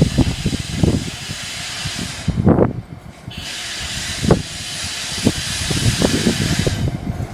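Train noise: a loud, steady hiss that breaks off briefly about two and a half seconds in and resumes, over irregular low knocks and thumps.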